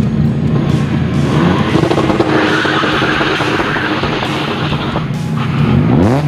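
A Renault Sport car driven hard, its tyres skidding in the middle and its engine revving up near the end, over background music.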